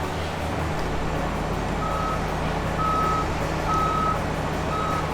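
A heavy machine's engine running steadily, with a reversing alarm beeping about once a second, starting about two seconds in.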